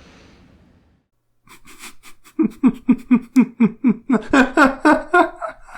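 Hearty laughter: a fast run of 'ha-ha' bursts that starts about a second and a half in and grows louder.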